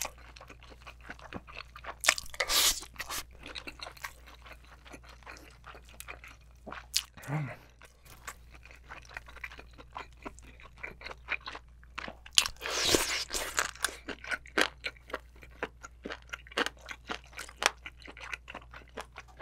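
Close-miked chewing of spicy braised giant abalone: a steady run of small wet, crunchy mouth clicks. There are two louder, longer rushes of mouth noise, about two seconds in and about thirteen seconds in.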